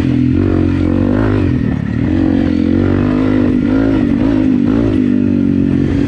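Honda CRF250 Rally's single-cylinder four-stroke engine running under throttle while riding, its pitch rising and falling as the throttle is worked, dipping briefly about two seconds in and again near four and a half seconds.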